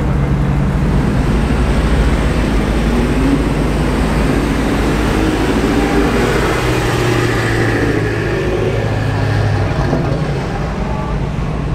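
Performance car engines burbling at low revs as cars drive slowly past. The loudest part is a BMW M5 F10's twin-turbo V8 passing with a steady low drone from about six to ten seconds in.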